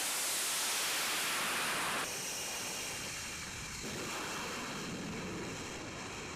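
Jet engine roar of an F-35B taking off from a ski-jump ramp, heard as a loud, even rush. The high end drops off abruptly about two seconds in, and the sound changes again near four seconds.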